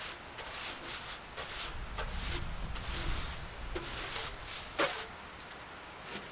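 Scraping and rustling as dried hay jammed in a round baler's springs and frame is pulled and scraped out, in a string of short scratchy strokes, with one sharper knock about five seconds in.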